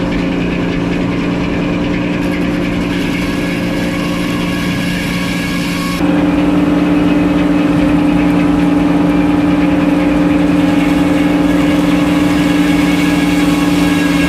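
Engine of a sawmill rig running steadily; about six seconds in it suddenly gets louder and its pitch steps up, then holds steady.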